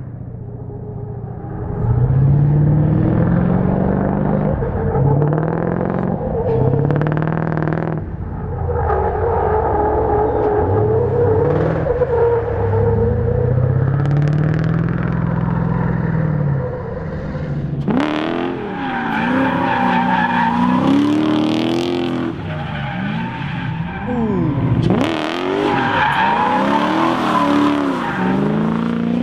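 Drift car engine revving up and down again and again through a drift run, with tyre squeal and skidding. About eighteen seconds in, the sound changes to a higher-pitched engine note with more tyre noise.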